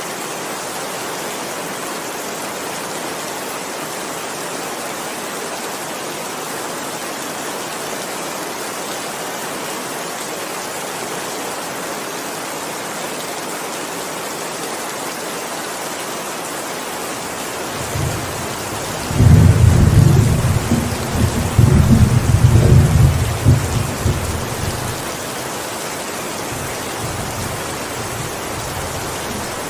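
Steady heavy rain, joined about two-thirds of the way in by a loud, deep rumble of thunder that lasts several seconds and fades back into the rain.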